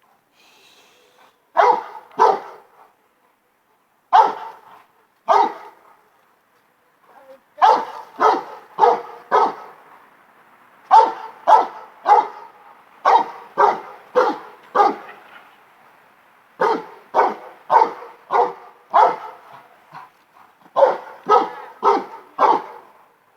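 Great Dane barking over and over: single barks and quick runs of two to five, with pauses of a second or two between runs.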